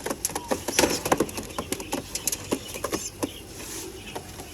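Pigeons moving about in a loft, making a patter of irregular taps and scuffles.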